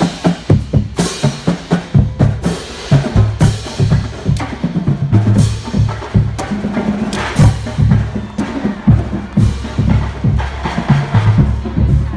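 Parade drumline beating a steady, loud cadence of rapid drum strokes, with deep bass drum hits under the snare drums.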